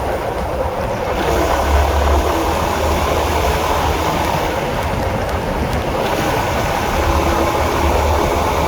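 Honda CB150R's single-cylinder engine running steadily as the motorcycle rides, with a constant low rumble and road noise.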